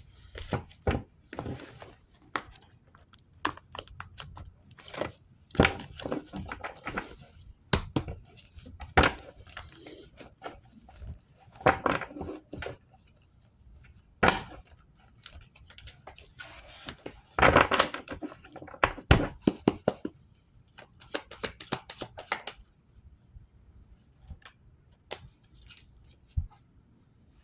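Tarot cards being shuffled and handled: irregular snaps, riffles and rustles of card stock, in scattered clusters with short pauses between them.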